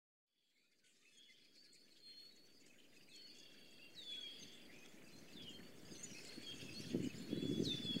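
Birds chirping and calling, with short whistles that bend up and down in pitch, fading in from silence. A low, uneven rumbling noise builds up and becomes the loudest sound near the end.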